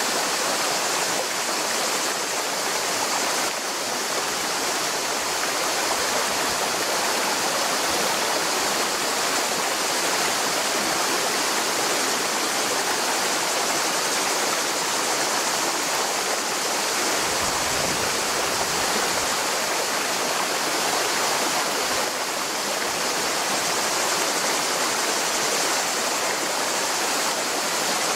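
Mountain river rushing over rocks, a steady full rush of flowing water.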